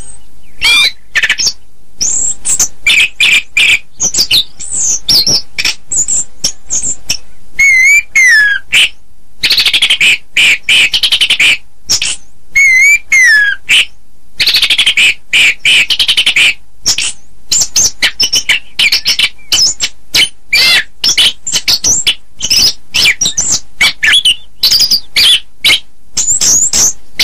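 Chestnut-capped thrush (anis kembang) singing a long, varied song of rapid whistled phrases and trills, with quick rising and falling notes and few pauses.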